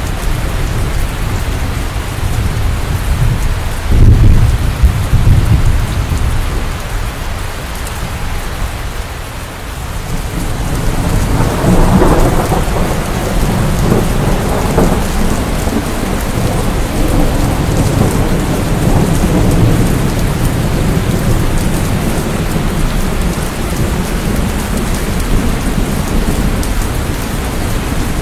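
Steady heavy rain with thunder rumbling in it: a short low rumble about four seconds in, and a longer, louder roll building around twelve seconds that slowly dies away.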